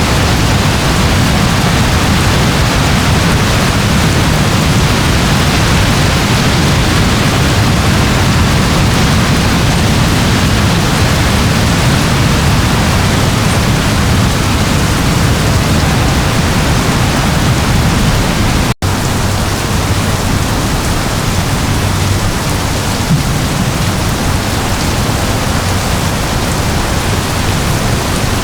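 Steady rain, an even hiss with no single drops or rumbles standing out. It cuts out for a split second about two-thirds of the way through, then carries on as before.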